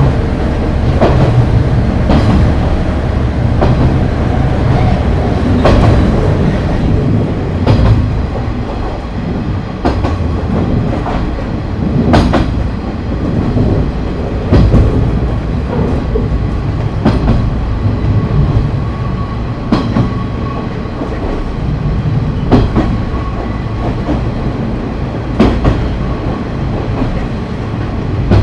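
KiHa 30 diesel railcar under way, with its DMH17H diesel engines droning steadily under the wheel noise. The wheels knock over rail joints every second or two.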